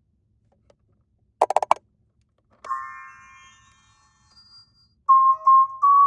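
Four quick clicks, then a chime that rings out and fades, then an electronic beeping tune of short stepping notes starting near the end.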